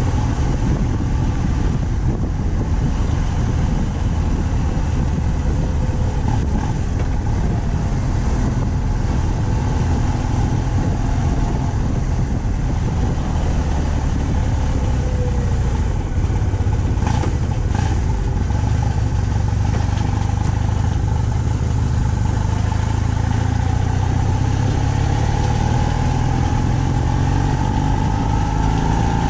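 BMW R 1200 C's flat-twin boxer engine running steadily while cruising, a constant low rumble. A whine grows and rises slightly in pitch over the last ten seconds, and there is one sharp click about 17 seconds in.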